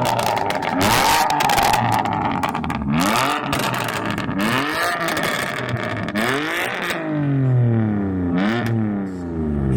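BMW M3 Competition's twin-turbo inline-six revved in a string of blips, the revs climbing and dropping about six times with a longer fall near the end, popping and crackling on the overrun. It runs the stock exhaust with the resonator cut out, which makes it really loud.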